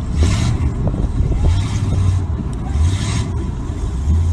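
Monster truck engine running and revving unevenly, its low drone swelling and easing. Three bursts of rushing noise come about a second and a half apart.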